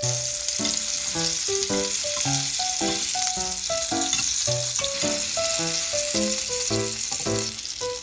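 Cherry tomatoes, mushroom caps and asparagus sizzling steadily in hot oil in a ridged grill pan.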